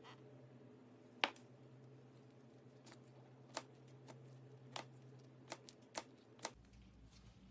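Slime being worked by hand, giving scattered sharp pops and clicks, about six in all, the loudest about a second in, over a faint steady low hum.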